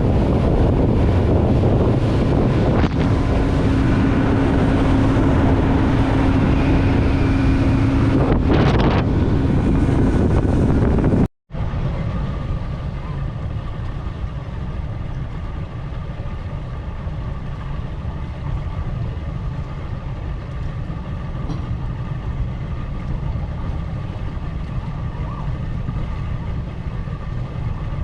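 Wind buffeting the microphone over a boat's motor running steadily. After a sudden cut about eleven seconds in, a quieter, steady low engine rumble.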